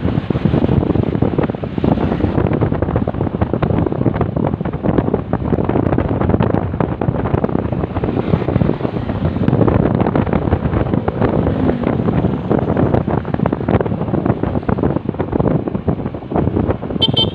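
Wind buffeting the microphone on a moving motorcycle, loud and steady, with the motorcycle and road noise beneath it.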